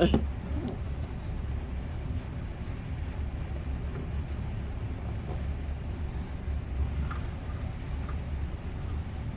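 Steady low background rumble with a few faint clicks; no gunshots.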